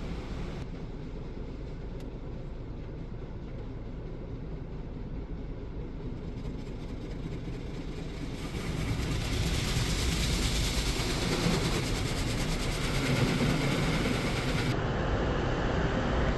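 Car wash machinery running with a steady low rumble. About eight seconds in, a loud rushing hiss joins it, and the hiss's high part cuts off sharply near the end.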